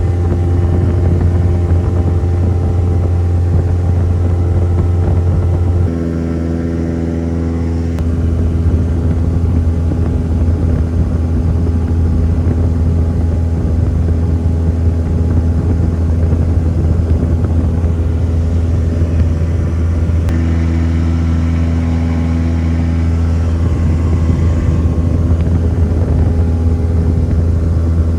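Semi truck engine running at a steady speed, a loud low drone whose pitch shifts about six seconds in and again about twenty seconds in.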